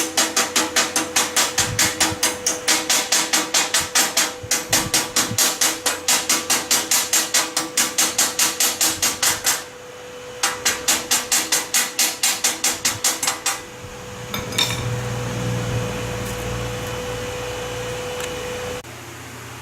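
Hammer striking steel in quick, even blows, about four a second, in two runs with a short pause between. Near the end the blows give way to a steady noisy hum.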